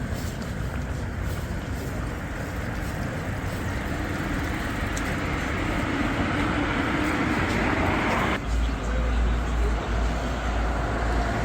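Street traffic on a wet road: a vehicle's tyre hiss builds over a few seconds and breaks off suddenly. A strong, steady low rumble follows from about eight seconds in.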